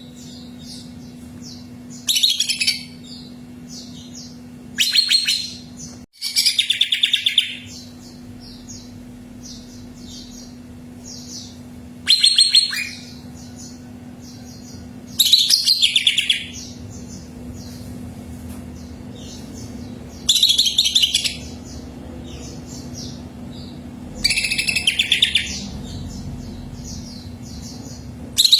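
Green leafbird (cucak ijo) singing in loud bursts of rapid, repeated high notes every few seconds, with softer short chirps between the bursts. A steady low hum runs underneath.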